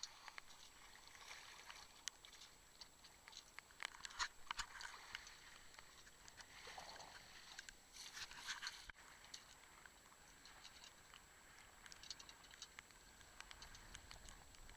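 Faint, irregular patter and small splashes of water around a small sailboat.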